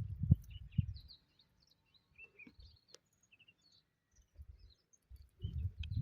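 Scattered short bird chirps, faint against the quiet of open farmland, with a low rumble in the first second and again near the end.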